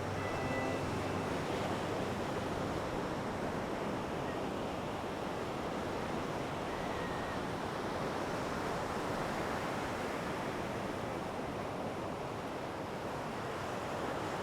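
Steady rushing noise of wind and sea waves, with the last faint notes of background music fading out in the first second.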